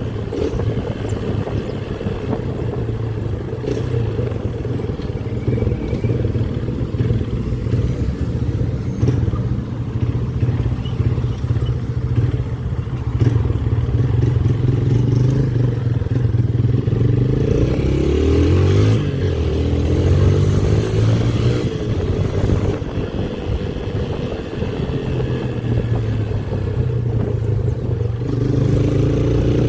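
Motorcycle engine running steadily while riding, with the revs rising and falling briefly about two-thirds of the way through.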